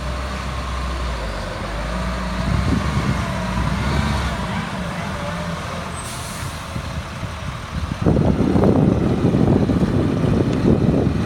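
Freightliner M2 water truck's Cat C7 diesel engine running, its level rising and falling. About eight seconds in a loud, rough rushing sound starts suddenly as the water valve is opened and water is released.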